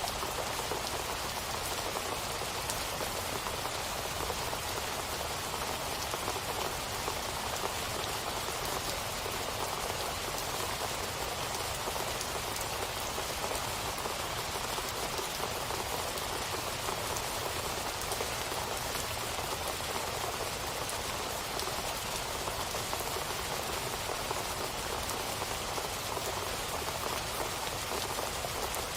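Steady rain falling on a surface, an even hiss with fine drop patter throughout.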